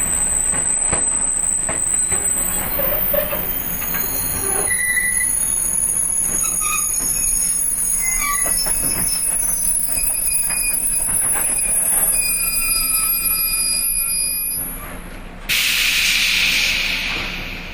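115-series electric train cars heard from the gangway between coupled cab cars, with high wheel and brake squeals shifting in pitch and knocks from the coupled cars. Near the end a sudden loud hiss of compressed air lasts about two seconds, then the sound drops off.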